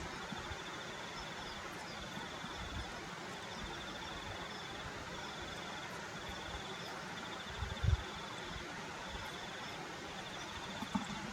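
An insect, cricket-like, chirping in short pulsed trills repeated about once a second over a steady outdoor hiss. A brief low bump comes about eight seconds in.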